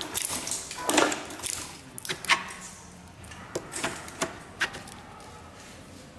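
Insulation paper cutting and folding machine for ceiling-fan motors making a run of sharp, irregularly spaced clicks and clacks as it cuts and folds the paper.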